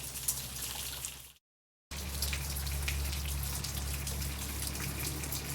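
Rain falling and dripping, many small drops ticking in a steady patter. The sound cuts out completely for about half a second near a second and a half in. After the break a steady low hum runs underneath the drops.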